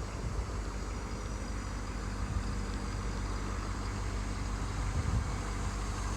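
Ford 6.7-litre Power Stroke turbo-diesel V8 idling steadily, just after being started.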